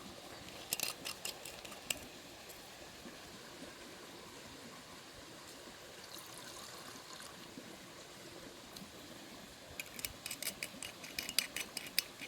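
Quick clusters of light clicks and taps, a few at a time about a second in and a longer rapid run near the end, over a faint steady hiss.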